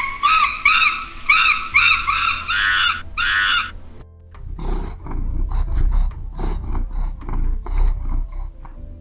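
About six high, evenly repeated animal calls, then a low, rough roar from a large animal starting about four and a half seconds in, over background music.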